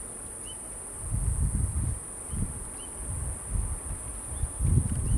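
Insects trilling in one steady, unbroken high-pitched tone, with low rumbling gusts of wind on the microphone coming and going.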